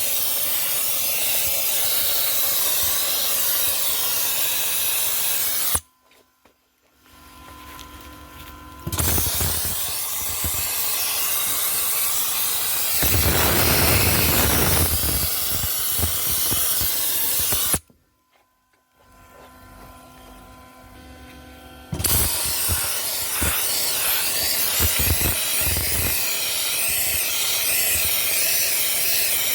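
Dry ice blasting gun spraying a steady, loud hiss of compressed air and dry ice pellets. The blast cuts off suddenly twice and starts again a few seconds later each time, and it grows louder for a few seconds midway.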